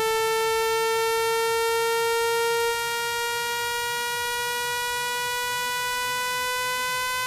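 Generated speaker-cleaning tone for shaking water out of a phone's loudspeaker: a single buzzy, mid-pitched tone rich in overtones, gliding slowly upward in pitch. It drops slightly in loudness about three seconds in.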